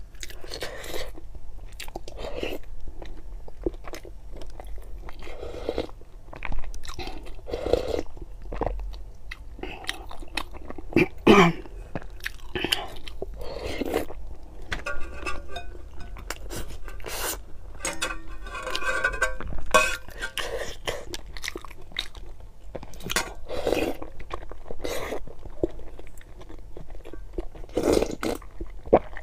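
A person eating: chewing and biting soft hard-boiled eggs and sipping spicy broth from a spoon, with many short wet mouth clicks and smacks.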